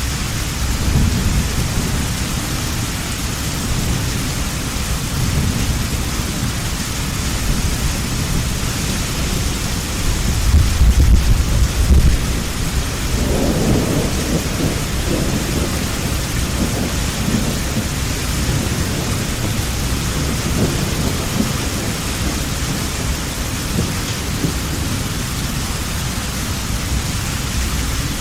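Heavy rain falling steadily, with thunder rumbling throughout. The thunder swells to its loudest about halfway through, then crackles and rolls away.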